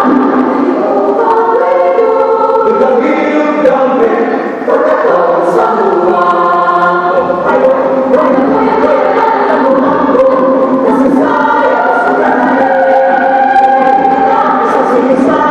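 Student choir singing in several parts at once, holding chords and moving between them, with a short break for breath about four and a half seconds in.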